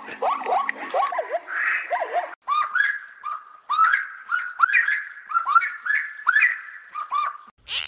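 Rapid, repeated short chirping calls from a small animal or bird. About two and a half seconds in there is an abrupt cut to a second run of slightly higher, more evenly spaced chirps.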